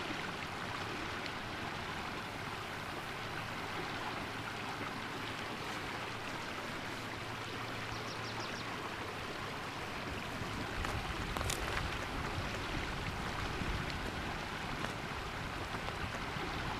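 Running water, a steady rushing noise like a stream, with a low rumble that grows about two-thirds of the way through.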